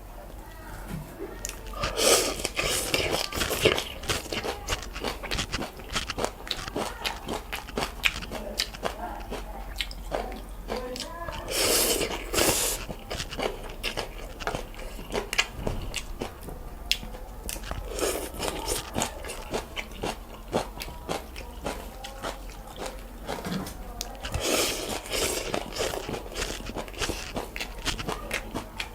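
Close-miked eating of noodles and soup: wet, crunchy chewing with many small clicks, broken by four longer bursts of noodles being slurped.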